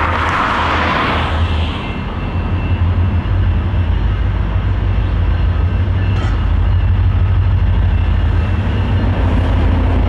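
Diesel locomotive running close by, with a heavy, steady low engine rumble that grows slightly louder. A hiss in the first couple of seconds trails off just after its horn sounding.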